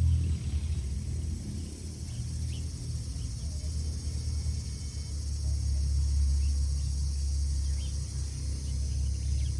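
Steady low rumble under a steady high, insect-like drone, with a few faint short chirps.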